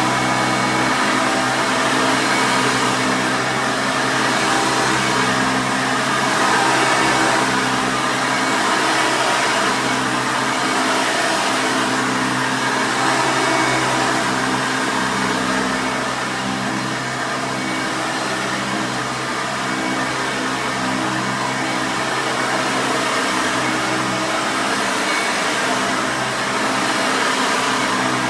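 1989 Hoover Elite 350 upright vacuum cleaner running steadily at full speed: a motor hum with a whine on top of rushing air, with small swells in loudness.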